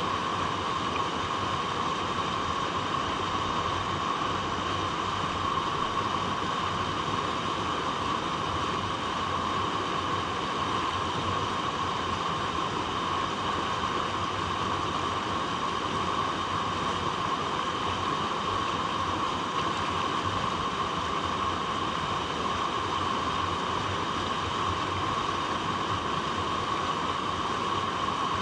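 Water flowing over rocks in a steady, even rush, with no breaks or changes.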